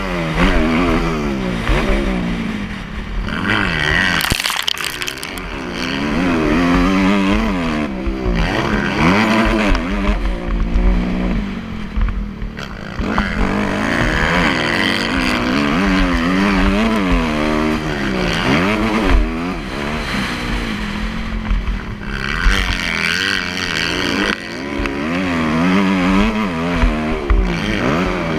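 Motocross bike engine revving up and falling back again and again, its pitch climbing and dropping every second or two as the rider accelerates, shifts and backs off.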